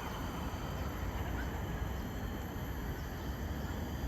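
Forest-trail ambience: a steady low rumble under a constant high-pitched insect drone, with a faint short bird chirp about a second and a half in.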